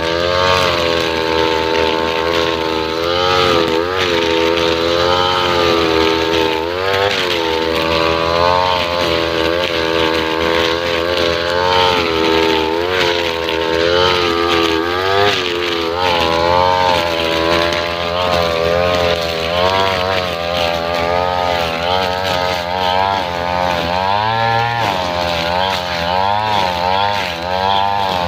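Two-stroke brush cutter with a nylon-line trimmer head running at high revs, its engine note repeatedly dipping and picking back up as the spinning line meets grass under load.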